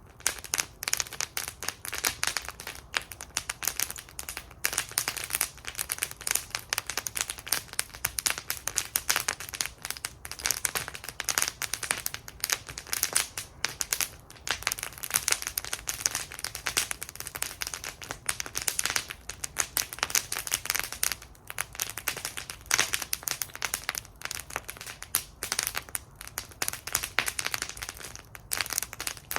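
Wood fire burning in a metal fire bowl, crackling and popping steadily with a dense run of sharp snaps.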